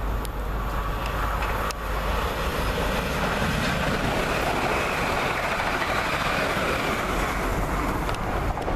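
A passenger train passing close by at speed: a steady rush of wheel and rail noise that eases off near the end.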